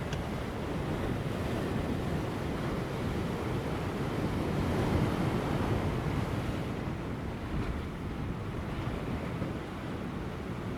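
Large ocean waves breaking on rocks, a continuous rushing wash of surf that swells louder midway and then eases, with light wind.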